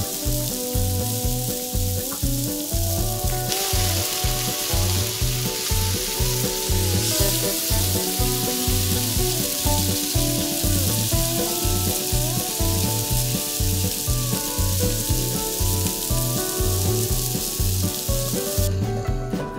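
Halved baby red potatoes sizzling in olive oil in a nonstick frying pan as they are turned with a spatula; the sizzle grows louder a few seconds in and cuts off about a second before the end. Background music with a steady beat plays over it.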